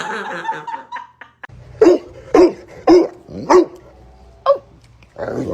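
A dog barking, a run of about five short barks at roughly two a second starting about two seconds in, then one more near the end.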